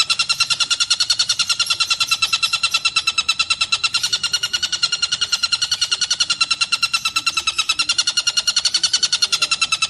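Tengkek buto (collared kingfisher) calling in a fast, unbroken series of sharp repeated notes, about eight a second.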